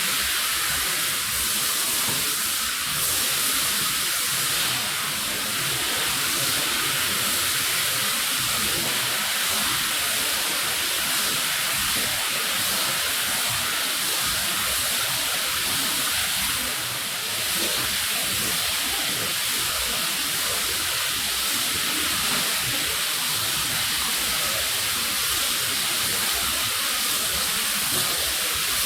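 A steady spray of water hissing onto a rug as it is hosed down, with a brief drop in level about two-thirds of the way through.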